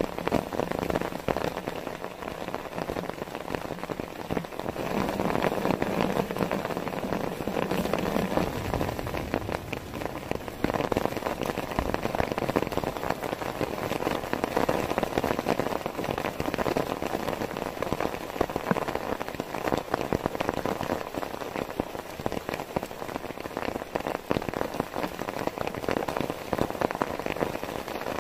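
Heavy rain falling steadily, a dense patter of drops that swells and eases in strength.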